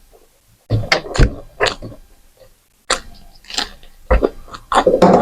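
Close-miked eating sounds: irregular wet chewing and mouth clicks, busiest and loudest near the end.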